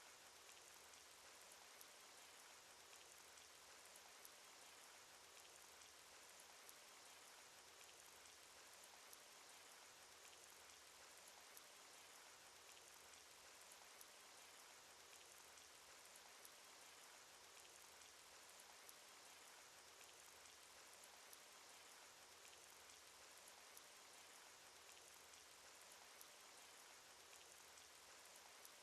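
Faint, steady rain, with scattered sharp drop ticks over an even patter: a rain sound effect from a cartoon.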